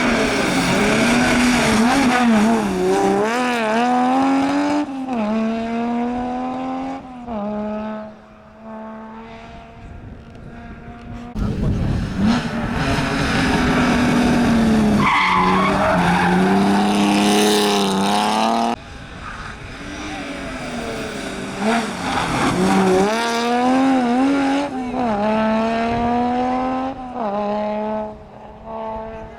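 Rally cars at full throttle on a stage, engines revving up through the gears with quick drops at each shift and lifting off into corners. Several passes are cut together, with abrupt changes between them.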